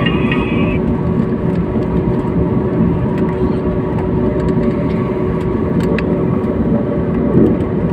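Steady engine and airflow noise inside a taxiing airliner's cabin: an even low rumble with a steady hum over it.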